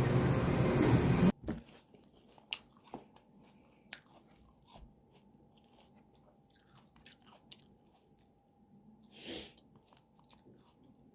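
Clattering, sizzling table noise cuts off about a second in. Then it is quiet, with soft scattered crunches and clicks of someone chewing and biting food.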